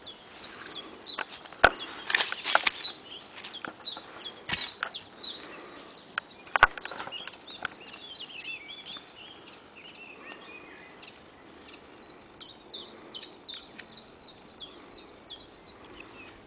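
Small birds chirping in quick runs of short, high, falling calls. A few sharp cracks cut in, the loudest about a second and a half and six and a half seconds in.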